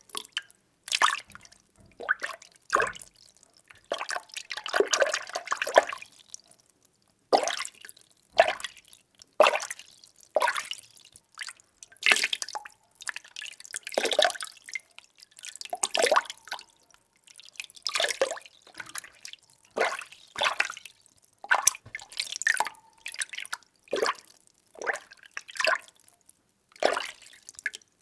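Water being stirred by hand in a container: short sloshing swirls about once a second, with a longer stretch of churning around five seconds in.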